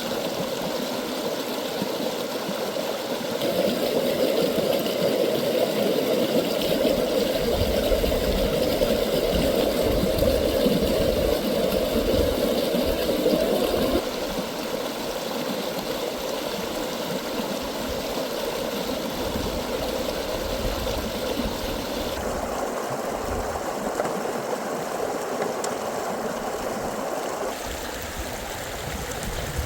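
Running water of a stream, a steady rushing babble that changes abruptly a few times in loudness and character.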